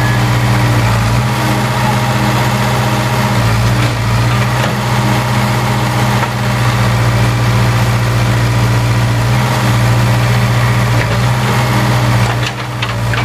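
Case 580K backhoe loader's four-cylinder diesel engine running at a steady speed, with a brief dip and a few knocks near the end.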